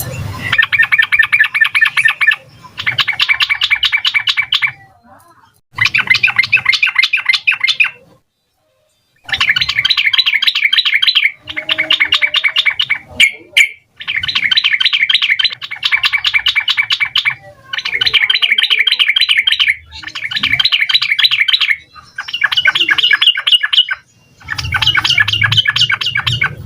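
Yellow-vented bulbul (trucukan) singing in a run of repeated bouts of rapid, bubbling notes, each bout two to four seconds long with short pauses between, about eight bouts in all.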